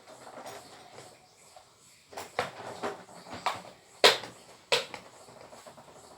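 A series of sharp knocks and clicks, the loudest about four seconds in and another just before five, as parts of an Arno electric fan are handled and fitted together during assembly.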